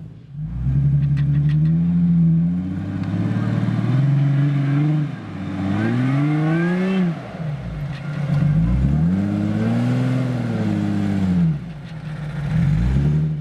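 Toyota FJ Cruiser's 4.0-litre V6 engine revving up and down over and over, its pitch rising and falling several times in quick succession.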